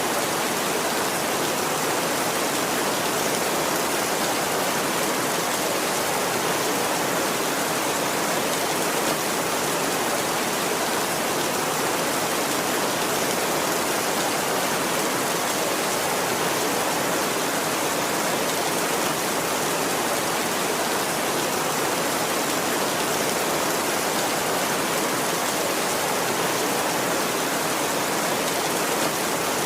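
Heavy rain falling steadily, an even hiss that holds at one level with no thunder claps.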